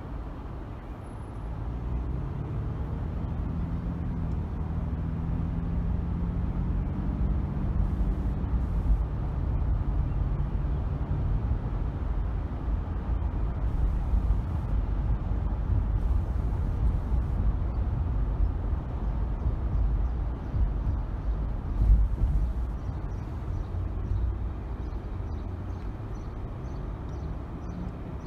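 Car driving with a steady low rumble of engine and tyre noise; a few seconds in the engine note climbs as the car accelerates, then settles back. A short thump, like a wheel going over a bump, about three quarters of the way through.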